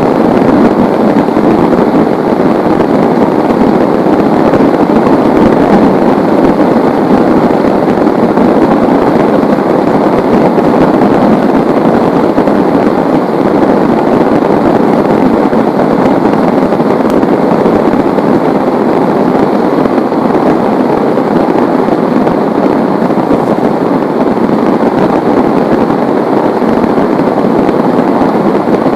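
Heavy rain pouring down steadily, a loud, even hiss with no breaks or thunder claps.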